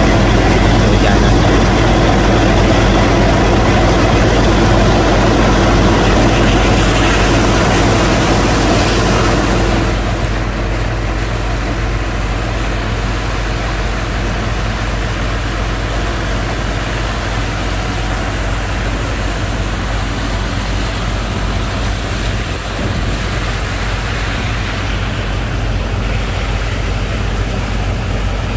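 Engine of a sand-pumping rig running steadily, a low drone with a rushing noise over it. The rushing eases and the overall level drops slightly about ten seconds in.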